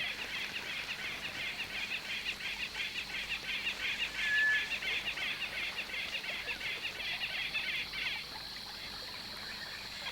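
Birds chirping in a rapid, even run of high calls that stops about eight seconds in, over a steady high hiss of natural ambience, with one short whistled note near the middle.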